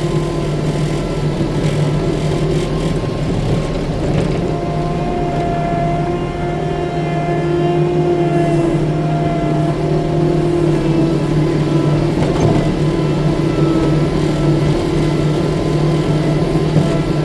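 A 6-ton tracked skid steer's engine running steadily. A higher whine joins about four seconds in and fades out around ten seconds.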